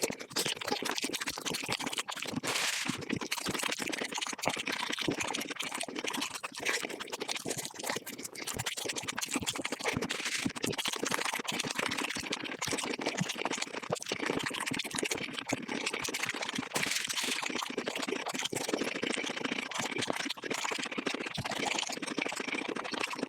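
Close-miked mukbang eating of chicken played at five times normal speed: chewing, crunching and mouth sounds crowd into a fast, unbroken stream of clicks and crackles.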